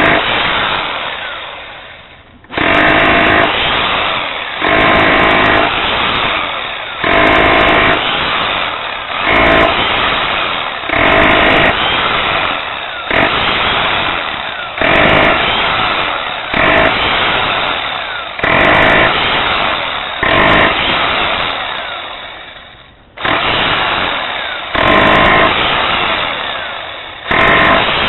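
A power tool's motor run in repeated short bursts, about one every one and a half to two seconds. Each burst cuts in sharply and then winds down.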